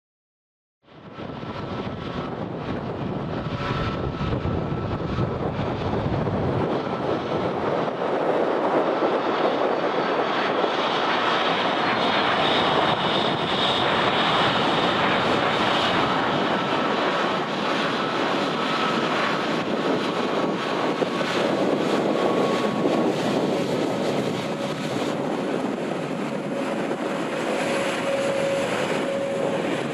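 Jet engines of a private jet taking off, a steady loud rushing with a faint whine, starting abruptly about a second in; near the end the engines of a taxiing Airbus A321. Wind buffets the microphone throughout.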